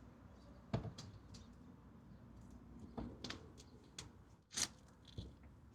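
Quiet, with a few faint clicks and a short rustle of handling noise about four and a half seconds in; no engine is heard running.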